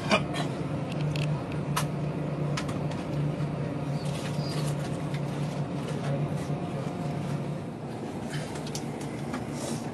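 A road vehicle's engine running steadily as a low drone, with scattered sharp clicks and rattles, the loudest just after the start.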